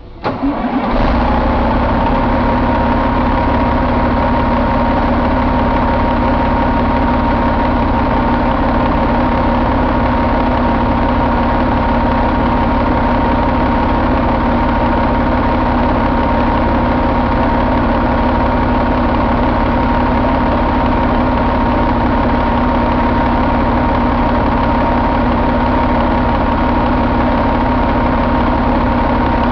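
Caterpillar 3406E 14.6-litre inline-six diesel engine catching and starting in the first second, then idling steadily, with a steady whine above the engine note.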